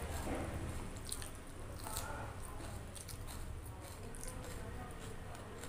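Close-up chewing and wet mouth smacks of someone eating rice, with soft squishing of rice and curry being mixed by hand on a plate. The smacks are busiest in the first second.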